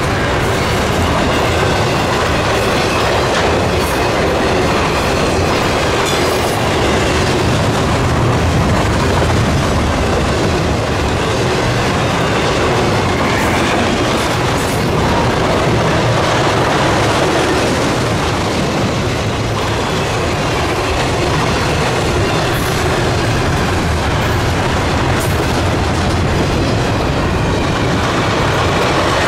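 Norfolk Southern intermodal freight train of double-stack well cars and trailers rolling past: a steady rumble with the clickety-clack of the wheels on the rails.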